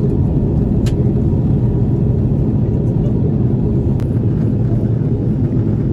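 Steady low rumble inside the cabin of an Airbus A330-300: engine and airframe noise heard from an economy seat. Two faint clicks, about a second in and about four seconds in.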